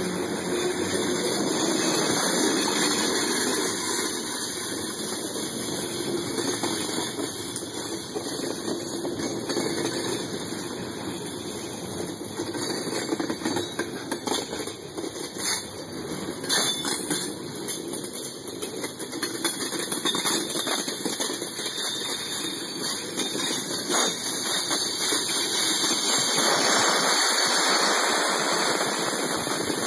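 Freight train cars rolling past a few feet away: a steady loud rumble and rattle of steel wheels on the rails, with a few sharp clicks along the way.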